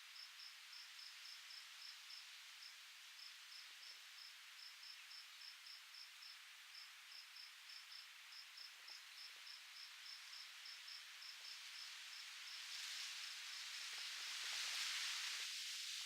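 Cricket chirping steadily, about three short high chirps a second, over a hiss of wind that swells into a gust near the end.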